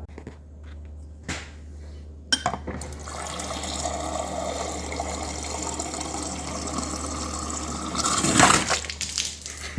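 Refrigerator water dispenser starting about two seconds in, running water into a glass through a newly fitted filter. It grows louder and spurts near the end as air pockets in the new filter come through.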